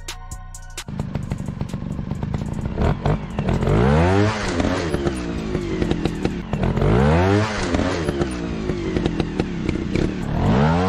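Motocross bike engine revving: the pitch rises and falls three times, with rattling clicks throughout.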